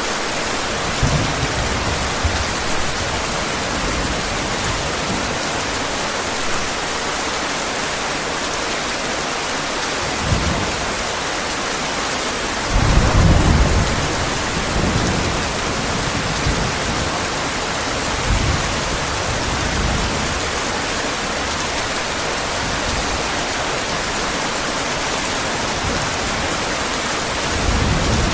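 Heavy rain falling steadily, with several low rolls of distant thunder. The loudest roll comes about halfway through.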